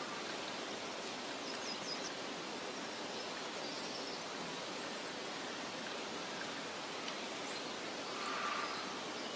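Steady, even outdoor hiss of meadow ambience, with a few faint, short high bird chirps through it and a slightly louder call about eight seconds in.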